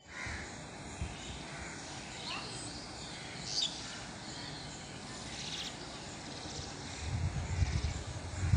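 Birds calling now and then over a steady outdoor background. About seven seconds in, a low, uneven rumbling starts and grows louder.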